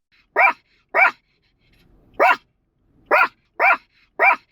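A puppy barking: six short barks, two, then a pause of about a second, then four more in quick succession.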